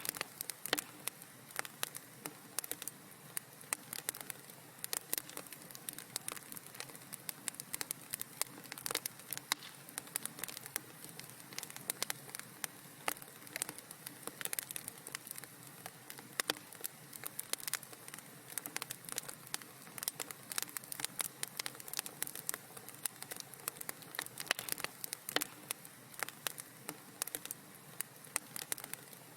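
Wood fire in a fireplace burning, with a steady soft hiss and many irregular small crackles and pops.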